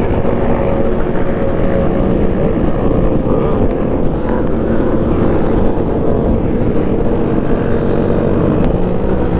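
Small motorcycle engine running steadily while riding, its pitch drifting up and down a little with the throttle.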